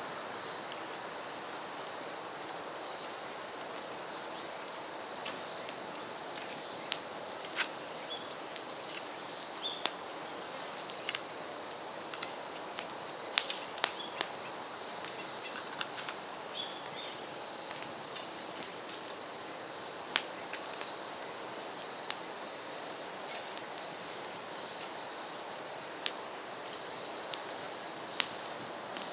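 An insect, cricket-like, trilling on one steady high pitch, swelling louder in several stretches of one to three seconds. Scattered sharp clicks and pops sound over it.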